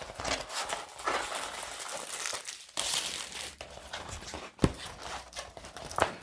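Plastic packaging of a diamond painting kit crinkling and rustling as it is handled and the rolled canvas is opened out, with a couple of sharp knocks near the end.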